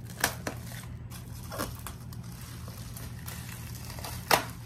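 A knife cutting packing tape and bubble wrap: a few short plastic crinkles and snaps, the loudest near the end.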